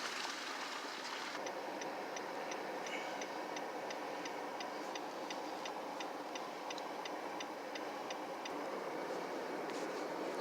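Steady outdoor hiss of distant traffic, with a fast, faint, high ticking at about four ticks a second that starts about a second and a half in and stops near the end.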